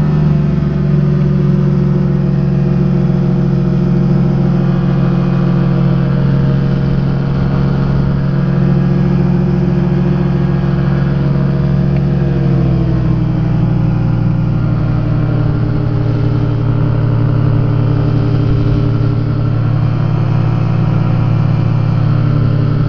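Rotax engine and propeller of a Quad City Challenger ultralight running steadily in flight, heard from the open cockpit. About halfway through its pitch drops slightly and then holds at the lower setting.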